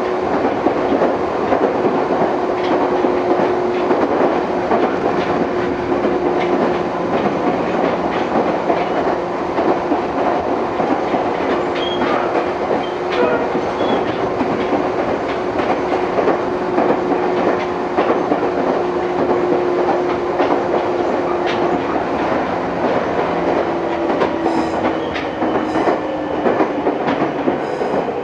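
Meitetsu 6000 series electric train running, heard from inside the car: steady rumble of wheels on rail with repeated clicks from the track and a steady motor and gear whine, which dips lower in pitch about 23 seconds in.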